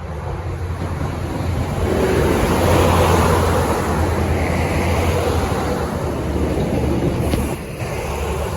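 Northern Ireland Railways 3000 class diesel multiple unit passing over the level crossing: a steady low rumble of engine and wheels under a rushing noise, loudest about two to five seconds in and easing near the end.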